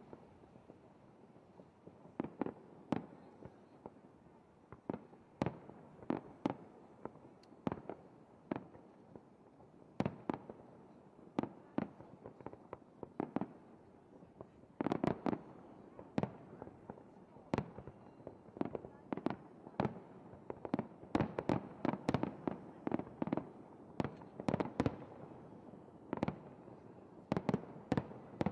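Aerial fireworks shells bursting in a display: a continual run of sharp bangs at uneven intervals, coming thicker and in quick clusters in the second half.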